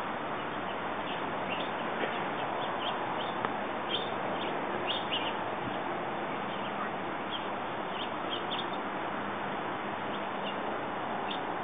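Small birds chirping now and then in short, high calls over a steady background hiss.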